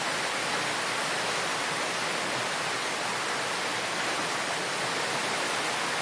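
Heavy thunderstorm rain pouring down hard in a steady, dense hiss, with wind driving it in sheets.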